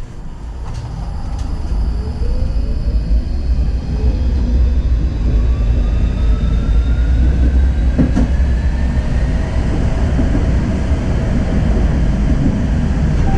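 Tram pulling away and gathering speed: its traction motor whine rises steadily in pitch for about nine seconds over the rumble of wheels on track, with a single knock about eight seconds in.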